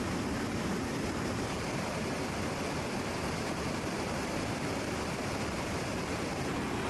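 Steady, even rushing noise of aircraft engines, without breaks or changes in pitch.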